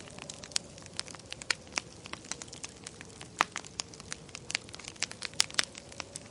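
Fireplace fire crackling: irregular sharp pops and snaps over a low steady hiss, with a few louder pops in the middle and near the end.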